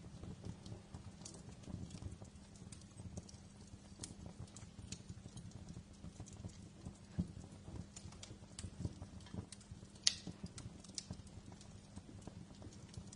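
Wood fire crackling in a fireplace: irregular small pops and snaps over a low steady rumble, with one sharper pop about ten seconds in.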